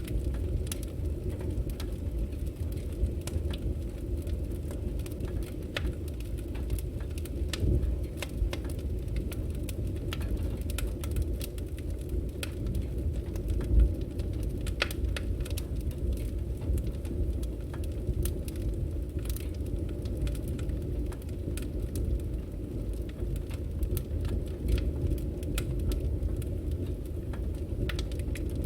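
Burning firewood crackling, with irregular sharp pops and snaps over a steady low rumble of flames.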